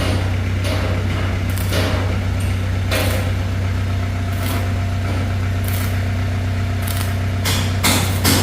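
An engine running steadily at idle, with sharp knocks every second or so that come closer together near the end.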